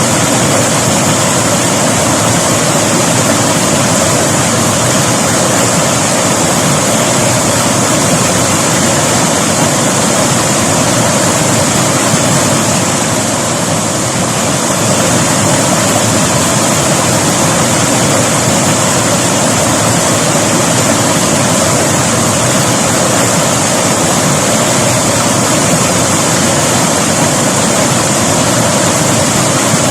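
River water rushing and splashing over rocks in a steady, loud wash, like a small waterfall or rapids.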